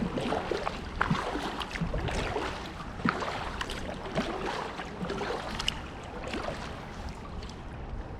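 Water splashing and lapping around an inflatable kayak being paddled, with irregular small splashes and a low rumble of wind on the microphone.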